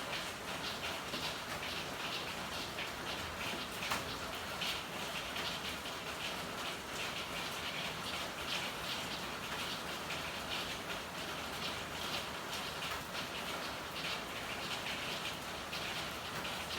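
Steady rain falling, a dense patter of drops, with one sharper tap about four seconds in.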